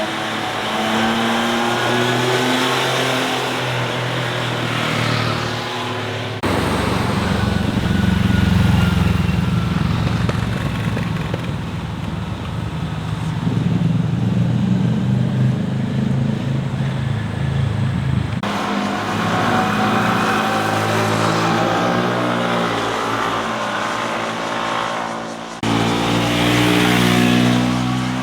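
Motorcycles riding past through a winding mountain road's corners, engines revving, their pitch rising and falling as they accelerate and shift. The sound changes abruptly three times, where separate passes are cut together.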